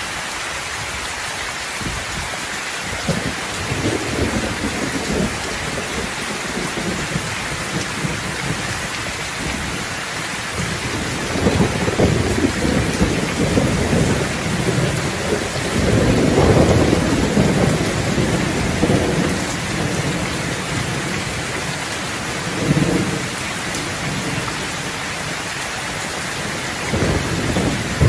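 Steady rain falling, with thunder rumbling low several times; the longest and loudest roll comes about halfway through.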